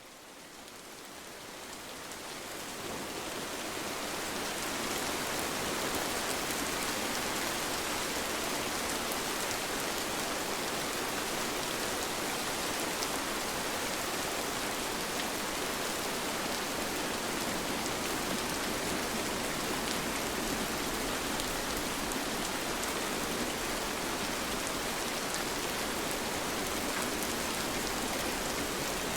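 Steady rain falling, an even hiss with scattered drip ticks, fading in over the first five seconds and then holding level.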